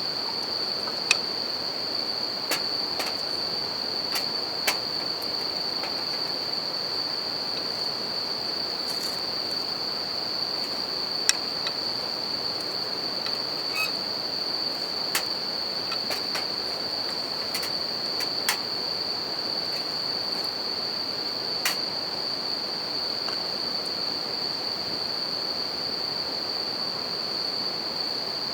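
Wood campfire crackling, with sharp pops every few seconds, over the steady rush of a river. A continuous high, ringing trill of suzumushi bell crickets runs beneath.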